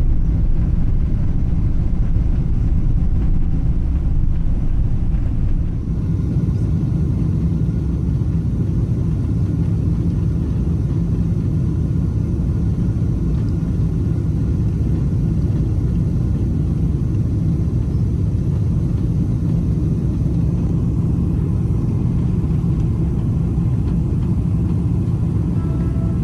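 Steady, loud rumble of a Boeing 777-300ER's engines and rushing air heard from inside the cabin. The sound shifts slightly about six seconds in, dipping a little and taking on a faint steady tone.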